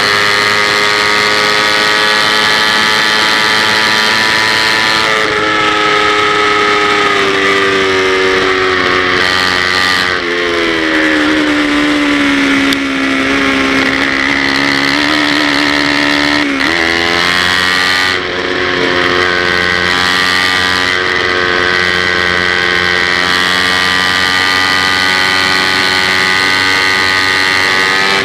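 Kawasaki Ninja 250's parallel-twin engine at high revs, heard on board the racing bike. Its pitch sinks gradually about a third of the way in, holds low, jumps sharply back up a little past the middle, then runs high and steady.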